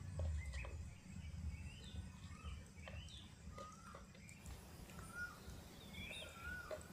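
Small birds chirping, many short calls sliding up and down in pitch, over a low rumble with a few faint clicks.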